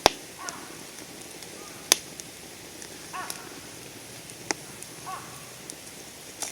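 Wood campfire burning with a steady crackle and sharp pops of the burning wood, the loudest right at the start and again at about two seconds and four and a half seconds. A bird calls briefly three times in the background.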